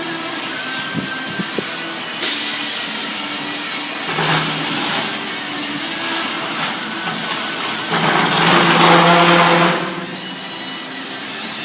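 Heavy truck running, with two bursts of air hissing: a short one about two seconds in and a longer, louder one about eight seconds in.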